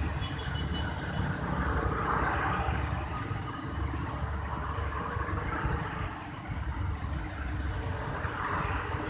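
Excavator's diesel engine running steadily while it loads muddy soil into a dump truck, with a low rumble that eases briefly about six seconds in.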